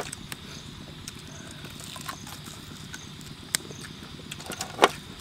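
Close-up eating sounds of fried pork ribs being eaten by hand: wet chewing and lip smacks as scattered short clicks, the sharpest one near the end, over a steady background hum.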